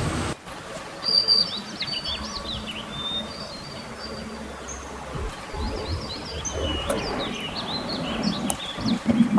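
Small birds chirping and twittering: many short, quick high calls, several overlapping, over a faint low background rumble.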